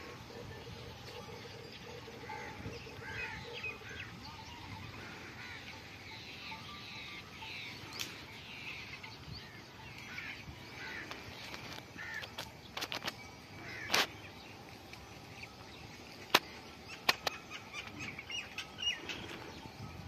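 Small birds chirping and calling on and off, with several sharp clicks in the second half, the loudest about three-quarters of the way through.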